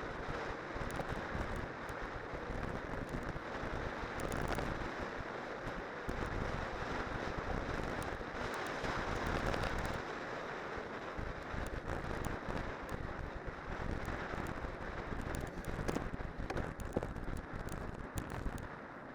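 Bicycle with spiked winter tyres rolling downhill, a steady rushing rumble of tyre noise mixed with wind buffeting the microphone. Scattered short clicks and knocks from the bike run through it.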